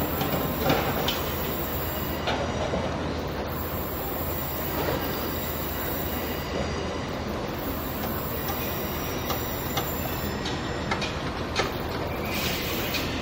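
Trains in a station: a CrossCountry Class 170 Turbostar diesel unit idling at the platform with a steady rumble, while another train runs slowly in on a far track with wheel squeal and occasional clicks.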